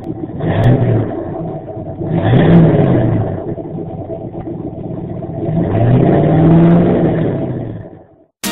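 Truck engine revved three times, the pitch climbing with each rev, the last one longer and held before it dies away near the end.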